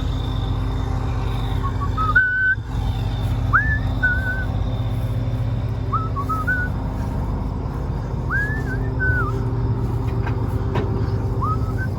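A heavy farm machine's engine running steadily, with a series of short whistled notes over it: about five phrases, each a quick rising glide into a held note or two.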